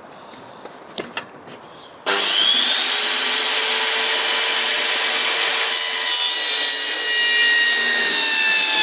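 A few faint knocks, then about two seconds in a power saw starts with a brief rising whine and runs steadily, cutting through a wooden board, its pitch sinking slightly under the load of the cut.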